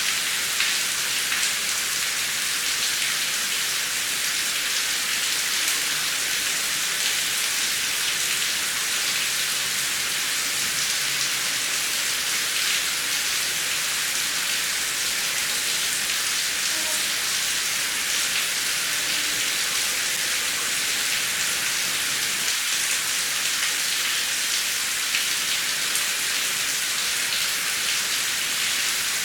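Heavy rain falling steadily, a dense hiss of drops with fine pattering.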